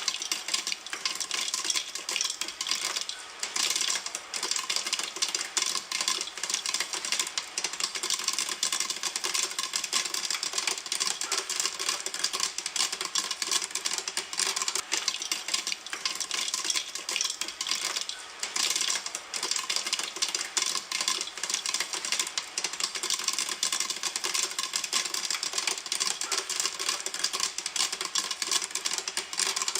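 Popcorn popping in a pan, a dense, continuous rapid crackle of many small pops.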